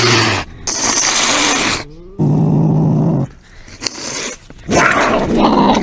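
A wild cat hissing and growling: a harsh hiss about a second in, a short low-pitched call in the middle, and a rough growl near the end.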